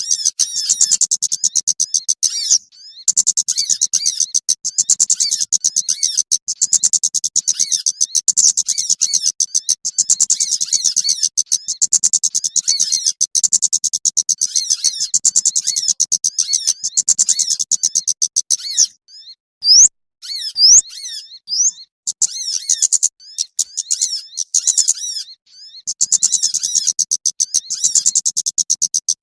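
Dense, rapid high-pitched chirping of small songbirds, a bird-lure (pikat) call for small birds, repeating in a steady pattern. It breaks off about two-thirds of the way through for a few separate rising whistled notes, then resumes.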